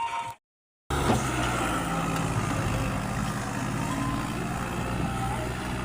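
A Fiat 480 tractor's diesel engine running steadily at a constant speed. It comes in about a second in, after a moment of music and a brief dead silence.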